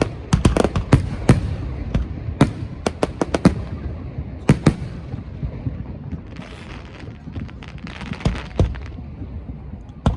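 Aerial fireworks going off: a quick run of sharp bangs, then a stretch of crackling shells about six seconds in, with scattered bangs to the end.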